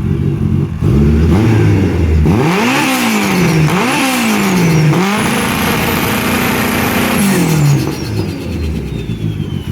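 Honda K-series four-cylinder engine in a Mini Cooper idling, blipped, revved up and down twice in quick succession, then run up to the 8,500 rpm rev limiter and held there for about two seconds before dropping back to idle.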